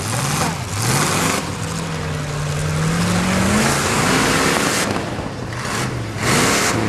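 Engines of several full-size demolition derby cars running and revving, their pitch climbing and falling as they rev up and ease off, over a rushing hiss that swells and drops off several times.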